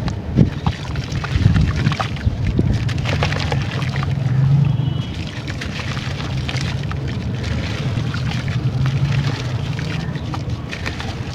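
Brown sand-textured clay crumbling and being dipped in water: a run of small crackles and crunches mixed with wet trickling, over a steady low hum.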